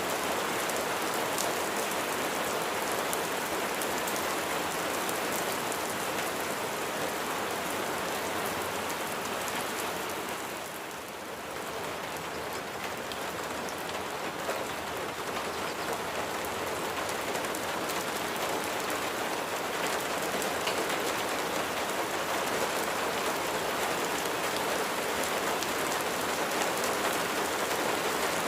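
Rain falling steadily, a dense even hiss of raindrops, dipping briefly in level about eleven seconds in.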